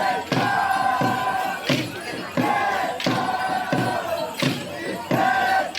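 Congada group singing together in long held notes over a steady drumbeat, about one beat every 0.7 seconds.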